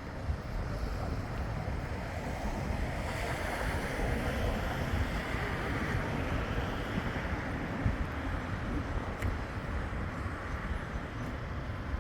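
Wind buffeting the microphone over a steady rushing noise, which swells for a few seconds near the middle.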